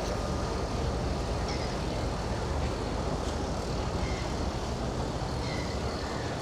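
Steady low rumble of city traffic, with a few short high chirps over it.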